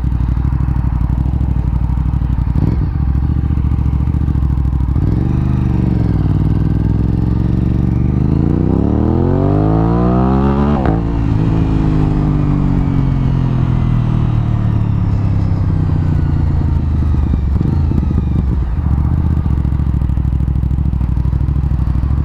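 Aprilia RS 660 parallel-twin running through an SC-Project exhaust while riding. The pitch climbs steadily from about eight seconds in, breaks off sharply around eleven seconds, then slowly falls away and settles to a steady lower note.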